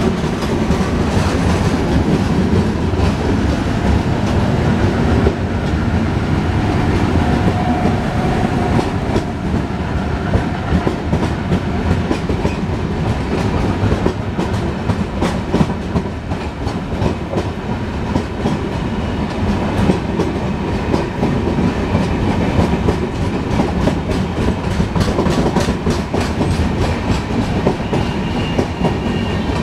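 Express passenger coaches rolling past on the track beside the platform: a steady rumble with a continuous run of wheel clicks over the rail joints.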